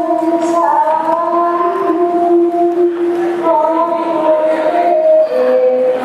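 A slow sung melody of long held notes that step from one pitch to the next.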